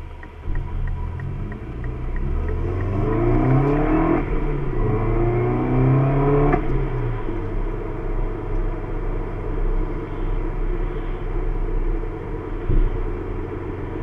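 Car engine pulling away hard: revs rise, drop at a gear change about four seconds in, and rise again before settling into steady cruising with road noise. A regular light ticking stops about a second and a half in.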